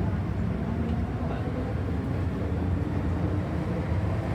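Steady low rumble inside a running MTR M-Train electric passenger car, with wheel and track noise carrying through the cabin.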